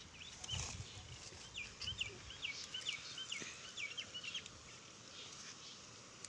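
A bird calling nearby: a quick run of short, high, sharp notes, about three a second, with a few low thuds near the start.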